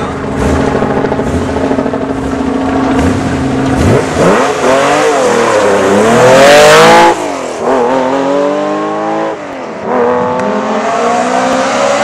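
Porsche 911 rally car's air-cooled flat-six idling steadily at the start, then launching and accelerating hard through the gears. The engine note climbs and drops at each shift, loudest as the car passes close about seven seconds in.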